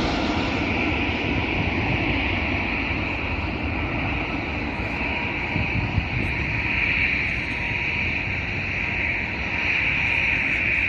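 Jet airliner engines running with a steady rumble and a high whine that grows stronger in the second half.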